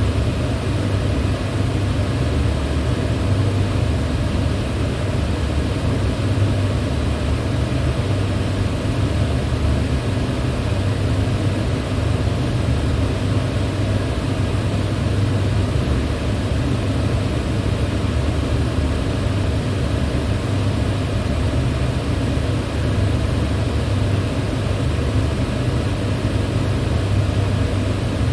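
Electric fan running steadily: a constant airy whoosh over a strong low hum, unchanging throughout.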